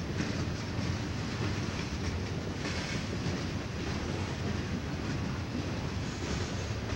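Freight train of boxcars rolling steadily past, its steel wheels running over the rails with a continuous rumble and occasional clacks.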